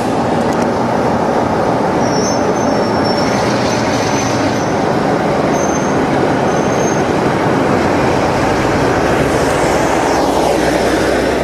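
Diesel train on a heritage railway running past, a loud steady rumble of engine and wheels, with a few brief high squeals a couple of seconds in.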